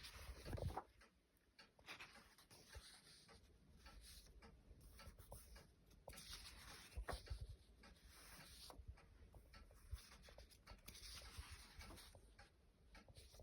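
Soft, intermittent rustling of paper pages as a thin children's book is leafed through and handled, with a light knock about half a second in and a few more around the middle.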